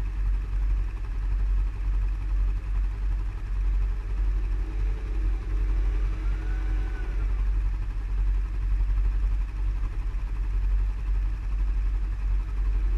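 ATV engine running during a ride, under a steady, heavy low rumble that flutters in loudness.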